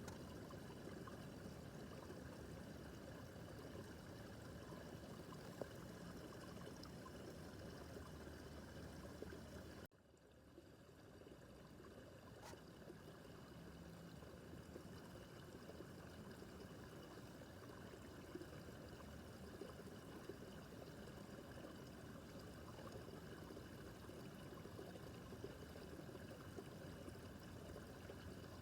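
Small brook babbling, a steady faint rush of running water. It drops out abruptly about a third of the way in and comes back over a second or two.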